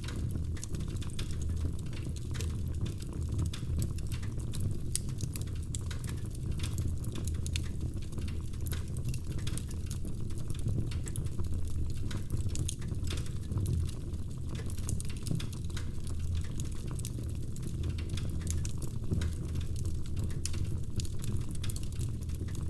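Wood fire crackling in a fireplace: irregular small pops and snaps throughout, over a steady low rumble.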